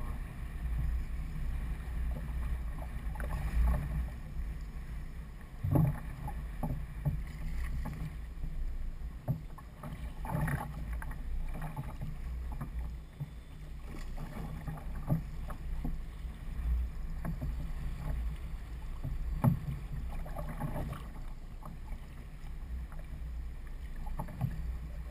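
Sounds aboard a fishing kayak on the water: a steady low rumble with a few short knocks, clearest about six, ten and nineteen seconds in.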